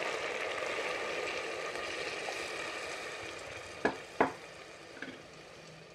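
Mutton and spice masala frying in hot oil, sizzling as water is poured over it, the sizzle slowly dying down. Two sharp knocks about four seconds in.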